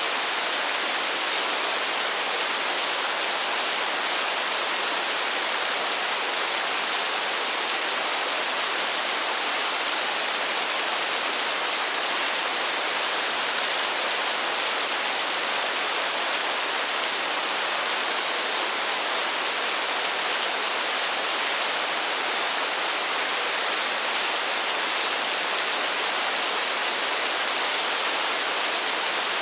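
Steady, unbroken rainfall in a forest: an even hiss with no changes.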